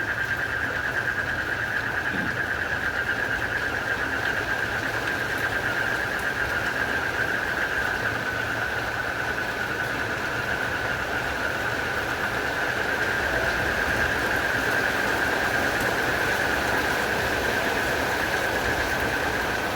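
Steady rain with a continuous high, fast-pulsing trill from a chorus of frogs and crickets over it; the trill stops at the very end.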